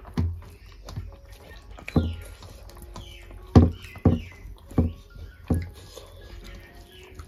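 Close-up eating sounds: wet chewing and sharp lip smacks, about six loud smacks spaced unevenly, while rice and pork curry are eaten by hand.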